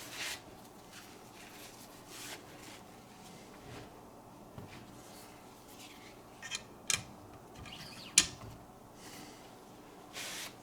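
Light handling noises from Wicked Edge sharpening stones and a wiping cloth: soft rustles and a few small clicks, with one sharper knock about eight seconds in as a hard piece is set down.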